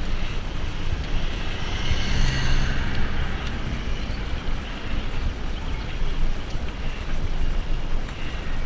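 Wind rushing over a helmet-mounted GoPro's microphone while cycling, a steady low rumble with tyre noise, with a brief swell of brighter hiss about two seconds in.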